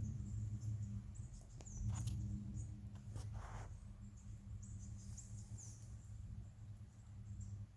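Outdoor ambience: short high chirps from small birds or insects, several of them in a quick run near the middle, with a few sharp clicks and a brief hiss early on, over a low steady rumble.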